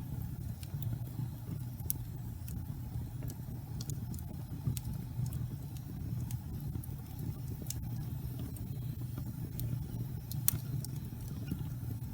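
Wood fire burning slowly in a fireplace: a steady low roar of flame with scattered sharp crackles and pops from the burning wood, one louder pop near the end.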